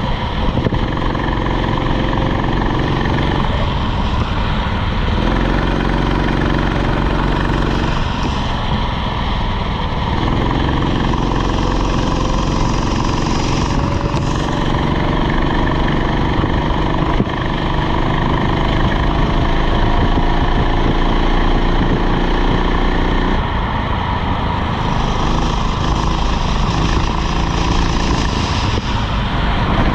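Rental kart engine running flat out, its pitch dropping and climbing again a few times as the kart lifts off the throttle for corners and accelerates away.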